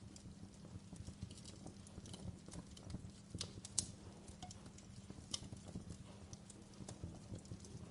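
Logs burning in a fireplace, crackling with frequent small pops over a low, steady rumble of flame. A few sharper snaps come in the middle, the loudest just under four seconds in.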